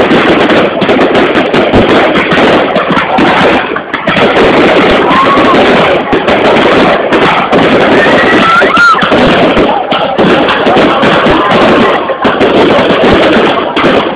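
Fireworks going off in a dense, continuous barrage of bangs and crackles, very loud throughout.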